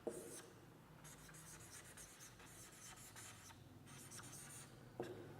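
Faint scratching of handwriting in short, irregular strokes, with a light click at the start and another near the end.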